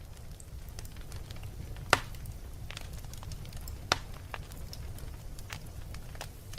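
Wood fire burning in a fireplace: a steady low rumble with scattered crackles and pops, two sharp loud pops about two and four seconds in.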